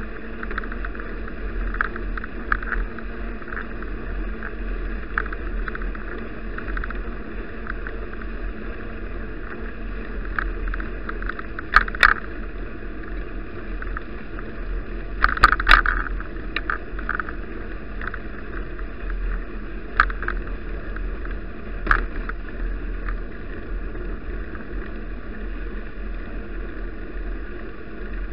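Bicycle ride heard through an action camera: a steady rumble of tyres and wind, with several sharp rattles and knocks from bumps, the loudest around the middle.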